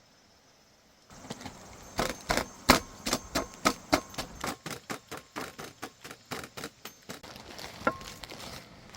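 Kitchenware being handled while a shaved-ice dessert is made: a quick, irregular run of sharp clicks and clatters, a few a second, starting about a second in, with one ringing clink near the end.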